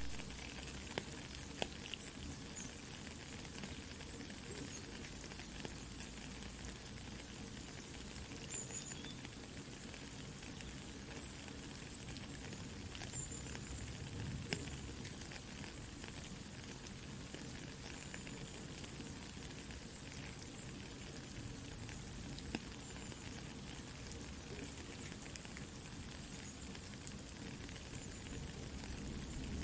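Soft rain falling together with a crackling campfire: a steady hiss with many small pops and crackles scattered throughout.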